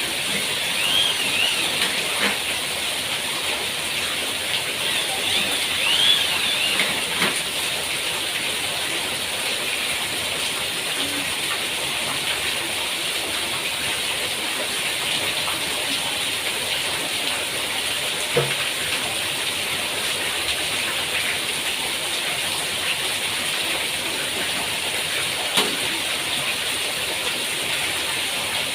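Steady hiss of rain falling, with a few short chirps in the first seconds and a couple of light knocks later.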